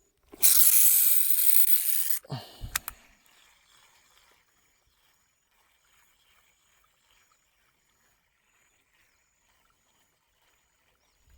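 A cast with a baitcasting fishing reel: the spool whirs loudly for about two seconds as line pays out and slows, then two or three sharp clicks, followed by only faint sounds.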